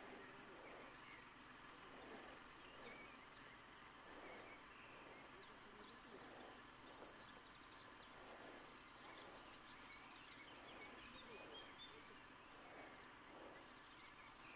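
Faint outdoor ambience with small birds singing: short runs of quick, high chirps repeated many times over a soft steady hiss.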